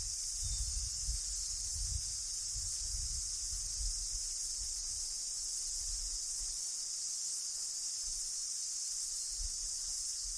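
Steady, high-pitched insect drone with no break, under a low rumble that comes and goes.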